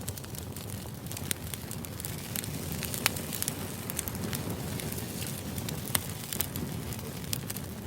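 Crackling fire: a steady low rushing hiss with frequent sharp pops and snaps scattered through it.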